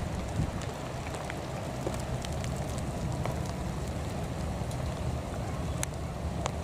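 Steady rain with a low wind rumble on the microphone, scattered with light, irregular ticks.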